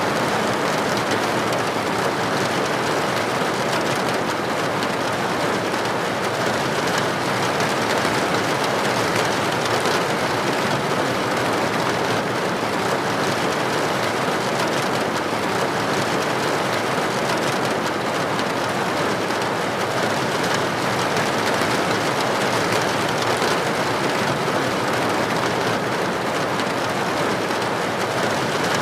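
Steady rain falling, an even, unbroken hiss with no single drops or breaks standing out.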